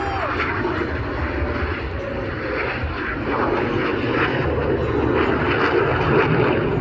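Jet aircraft flying past, a loud steady rush of engine noise that grows louder about three seconds in.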